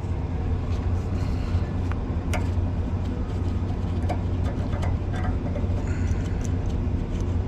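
Light clicks and taps of DEF lines and their clips being worked loose from a metal bracket, over a steady low hum.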